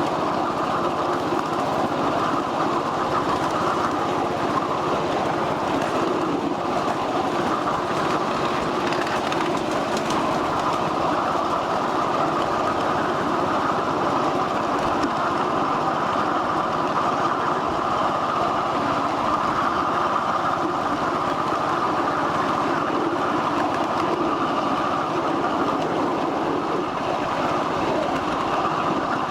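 1/8-scale live-steam ride-on train running steadily along its track, with a constant noise of the wheels on the rails.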